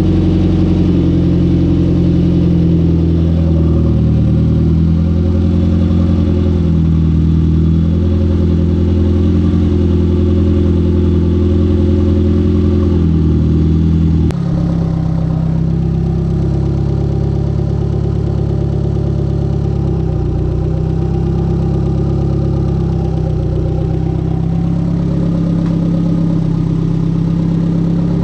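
Mitsubishi G54B 2.6-litre turbocharged four-cylinder engine of a Starion/Conquest running steadily at an even speed; about halfway through, its pitch and tone change abruptly.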